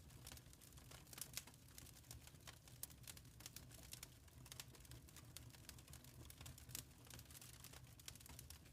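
Quiet wood fire crackling: irregular sharp snaps and pops over a low, steady rumble.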